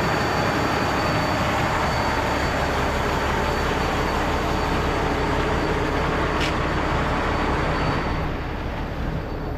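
Heavy diesel truck running, a steady drone under an even hiss of noise, with a single sharp click about six and a half seconds in.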